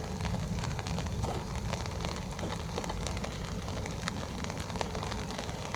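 Rain falling on an umbrella held over the microphone: many small sharp drop hits over a steady hiss, with a low rumble underneath.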